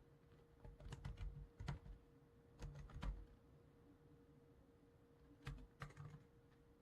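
Computer keyboard typed in three short bursts of a few keystrokes each, with pauses between, over a faint steady hum.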